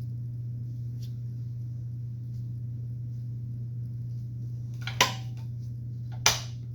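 Two sharp metallic clinks, about a second and a quarter apart near the end, as chop saw parts are handled and set in place, over a steady low hum.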